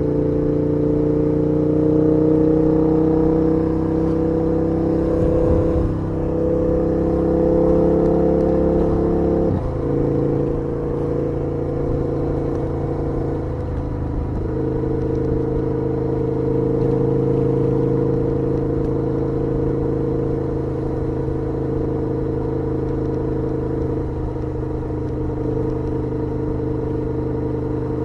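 KTM 1290 Super Duke R's V-twin engine running under way, its note rising slowly for the first several seconds. The note breaks off abruptly about ten seconds in and again around fourteen seconds, then holds steady.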